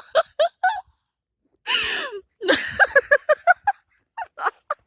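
A person's short, voiced gasps and hard breathing in quick runs, with a long breathy exhale about two seconds in.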